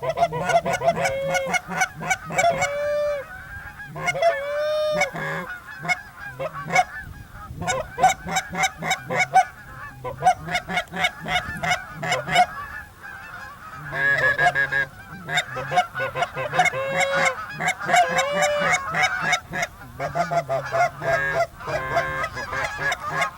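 Canada goose honks and clucks, rapid and overlapping, with several drawn-out rising-and-falling moans mixed in.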